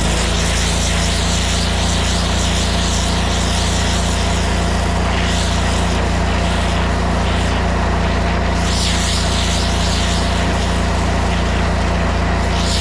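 Pressure washer running at full power: a steady engine drone under the hiss of a high-pressure water jet from a narrow wash-jet tip, starting abruptly and holding steady.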